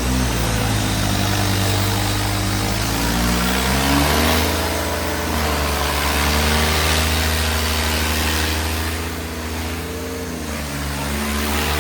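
Tractor diesel engines running hard under load in a tug-of-war pull, their pitch rising and falling as the throttle changes.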